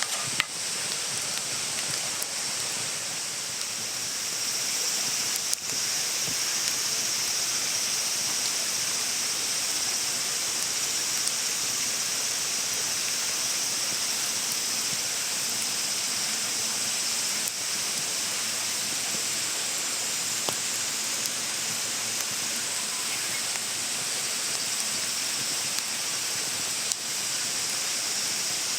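Steady rain falling in an even hiss, with a few faint taps.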